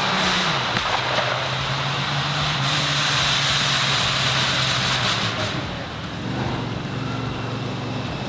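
A vehicle engine running at a steady speed under a loud rushing noise, which eases off about five and a half seconds in while the engine hum carries on.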